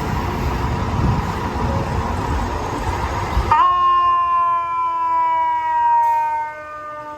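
Fire apparatus passing loudly with heavy engine and road noise. About halfway through, this gives way abruptly to a mechanical fire-truck siren holding one tone that slowly winds down in pitch and fades.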